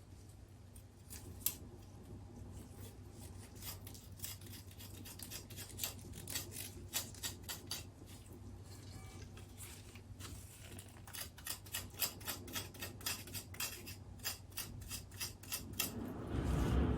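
Shepherd's purse greens being trimmed by hand: rapid, repeated sharp snips and scrapes, a few each second. A louder rustling swell comes near the end.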